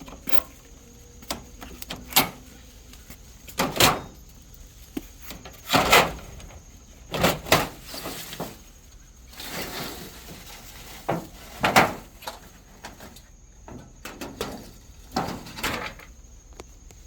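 Irregular knocks, rattles and scrapes of aluminum siding and trim being handled and worked loose, with a longer scraping stretch about ten seconds in.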